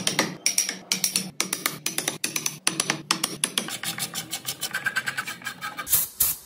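Mallet striking a carving chisel into Fokienia wood in quick, irregular taps, about four or five a second, with a louder burst near the end.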